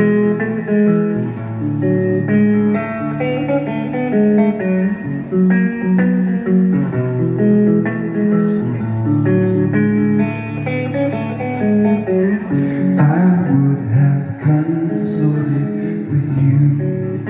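Live guitar instrumental intro to a song: a steady run of plucked notes over lower sustained chords. A brief high hiss, like a cymbal, comes about fifteen seconds in.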